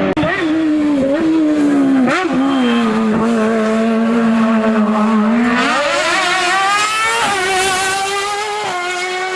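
Hill-climb race car engine under hard load, shifting gear in the first couple of seconds, holding a steady note, then revving up again about six seconds in with another gear change a second later.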